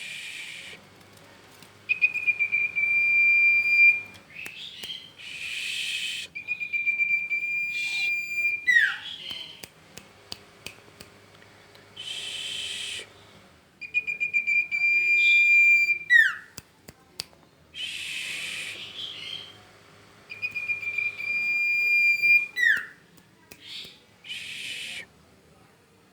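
Songbird singing a repeating phrase: a long, steady, high whistle held for about two seconds, then harsh raspy bursts and short downward-slurred notes, the cycle coming round about every five to six seconds.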